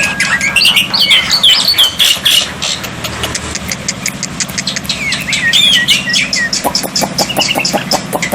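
Black-winged myna (jalak putih) calling: sliding whistled notes mixed with rapid clicking chatter, over a steady low hum.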